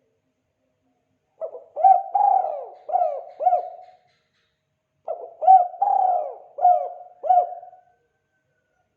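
Spotted dove (tekukur) cooing in two phrases, one starting about a second and a half in and the other about five seconds in. Each phrase is a run of several mellow coos; this is the song type Indonesian bird keepers call 'kuk 2'.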